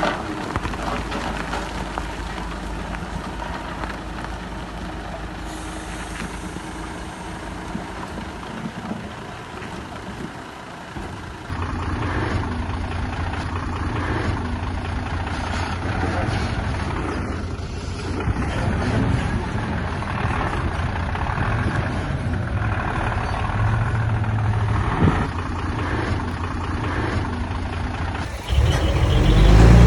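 Diesel engines of heavy earthmoving machinery running steadily, with abrupt shifts in the sound about a third of the way in and again near the end, where it gets louder.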